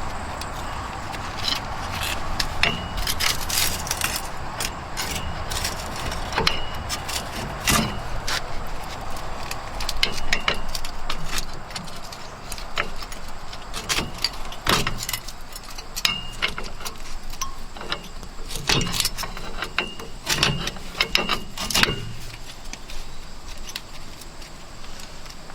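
Metal hand tools clinking and scraping against metal in a wheel hub as broken fragments are picked out, in irregular sharp clicks, some with a brief ring.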